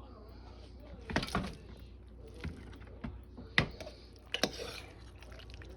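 Kitchen handling sounds: a few scattered knocks and clinks of utensils and dishes, with a short scrape a little after halfway.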